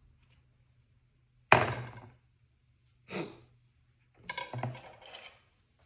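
Metal parts and tools being handled on a workbench: one sharp clank about a second and a half in, a shorter knock a little later, then a few seconds of clinking and clattering near the end.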